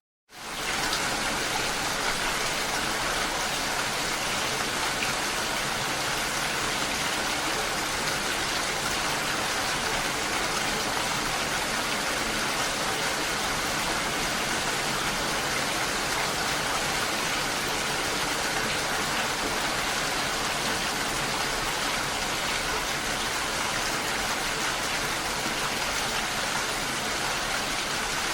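Steady rain falling, an even wide hiss with no other sounds; it cuts in abruptly right at the start after a brief gap of silence.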